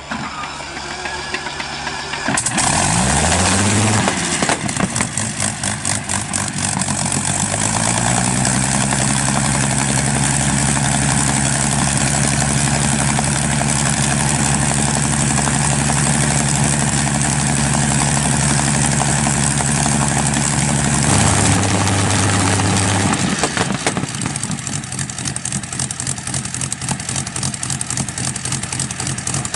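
Rolls-Royce Griffon Mk58 V12 aero engine starting: its pitch rises as it catches, then it runs steadily. The engine note changes about two-thirds of the way through and rises again at the very end.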